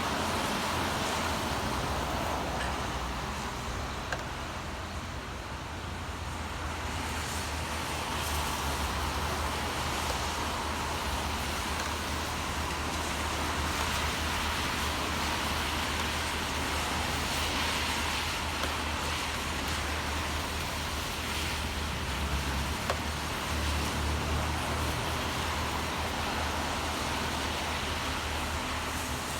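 Steady city traffic in the rain: a low engine rumble under an even hiss of rain and tyres on a wet road, with one faint tick about four seconds in.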